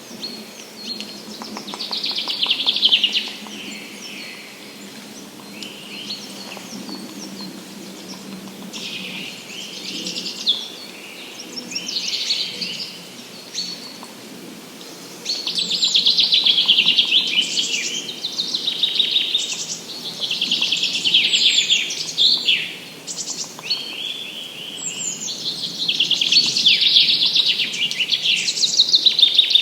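Songbirds singing in a forest in early spring: a series of fast, trilling song phrases, each a second or two long, which come closer and louder from about halfway through, over a faint steady background hum.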